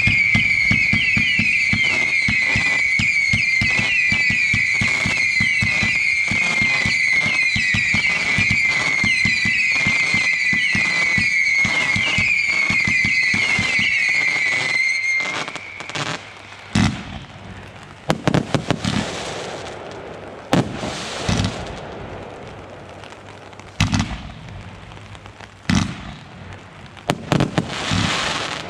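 Consumer fireworks firing: a steady high whistle with rapid crackling pops underneath for about fifteen seconds. Then the whistle stops and scattered bangs and bursts of crackle follow.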